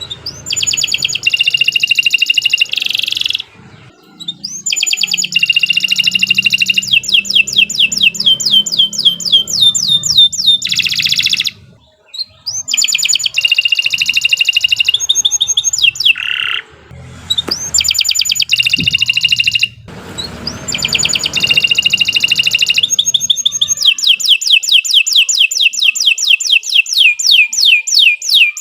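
Domestic canary singing a long, loud song of fast trills and rolls, broken by brief pauses. Near the end it runs into a rapid string of repeated down-slurred notes, several a second.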